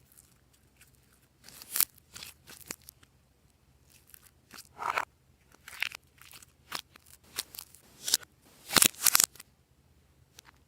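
Glossy slime being pressed, stretched and squished by hand, giving irregular sharp clicks and short squelchy pops, with the loudest cluster near the end.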